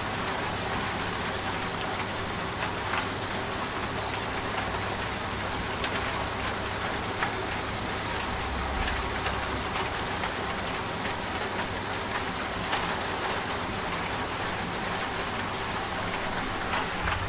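Steady rain with scattered individual drops tapping, over a low, steady hum from a washing machine running.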